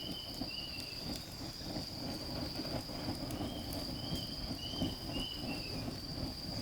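Outdoor ambience: a steady high insect drone, with short chirps in two little runs, once at the start and again about three seconds in, over an irregular low rumbling crackle.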